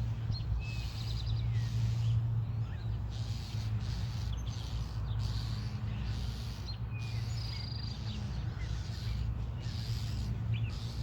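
Songbirds, starlings among them, giving scattered short chirps and brief whistled calls in agitation at a weasel raiding a starling nest, over a steady low hum.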